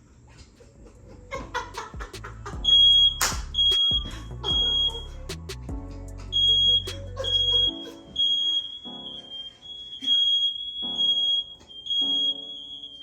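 Smoke alarm sounding, one high beep after another, starting about three seconds in. Over the first half it is mixed with sharp cracks and pops of firecrackers going off in the house.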